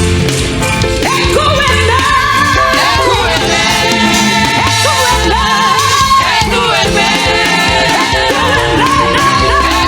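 Gospel choir singing a praise song with band accompaniment. A sung melody line bends and wavers from about a second in, over sustained notes and a strong bass line.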